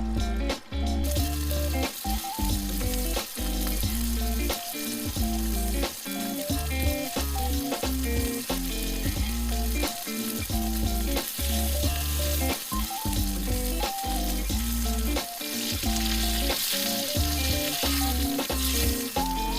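Food frying in a pan, a steady sizzle that starts about a second in, under background music with shifting notes and a pulsing bass line.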